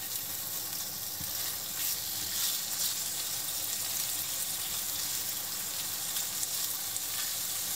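Salmon pieces sizzling steadily in olive oil in a nonstick frying pan, with the light scrapes of a spatula as the pieces are turned.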